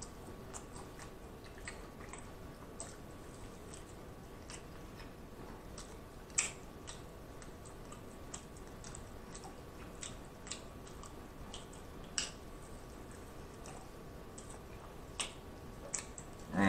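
Close-miked eating of barbecue pork ribs: quiet chewing with scattered wet mouth clicks and smacks, and a few sharper clicks about six, twelve and fifteen seconds in.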